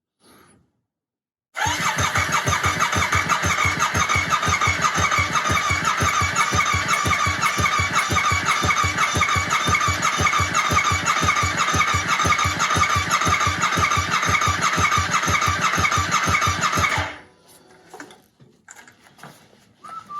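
Yamaha R7's parallel-twin engine firing up and running with no exhaust fitted, a loud, rapid, even pulsing from the open headers at a steady idle. It is switched off abruptly about three seconds before the end.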